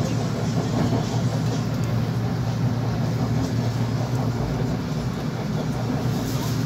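Steady rumble of a Manila LRT Line 2 electric train running between stations, heard from inside a passenger car.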